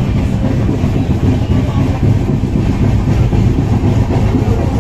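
Train running on the line: a loud, steady rumble of wheels on rails.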